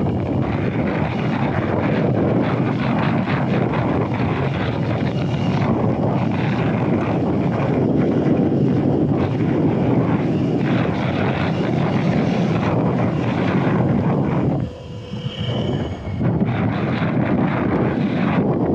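Steady rush of wind buffeting the microphone of a moving electric dirt bike, with a brief lull about fifteen seconds in.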